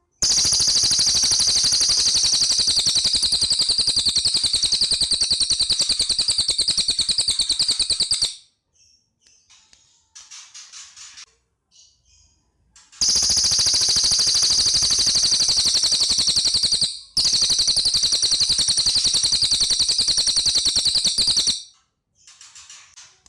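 Cililin songbird singing very rapid, high machine-gun-like trills: one long trill lasting about eight seconds, a few softer short chirps, then another long trill of about eight seconds with a brief break in the middle.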